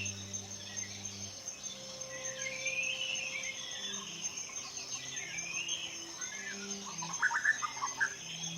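Forest birds singing, with repeated rising-and-falling whistled phrases, over a steady high insect drone. There is a quick burst of chirps about seven seconds in. Soft, sustained low music tones lie underneath.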